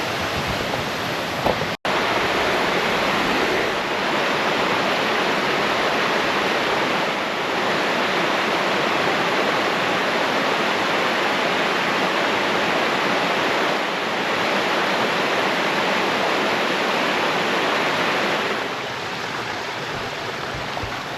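Steady rushing of a large waterfall's falling water. It cuts out for an instant about two seconds in and drops a little in level near the end.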